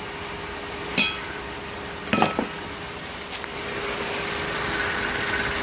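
Honda Civic engine idling steadily with the air conditioning running after a compressor replacement and refrigerant recharge. Two sharp clinks break in, about one and two seconds in.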